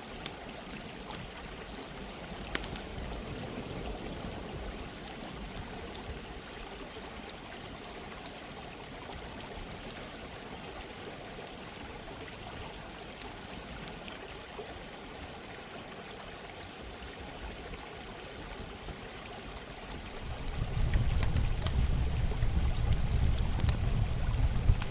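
Running water with a steady rushing sound, and a campfire crackling with scattered sharp pops. About twenty seconds in, a loud low rumble comes in and stays.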